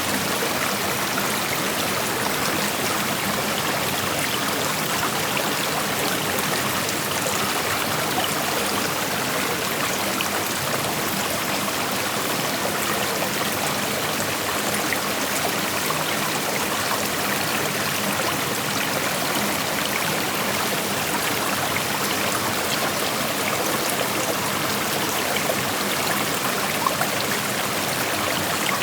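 A shallow creek flowing steadily, a continuous rushing of water with small splashes and trickles over rocks.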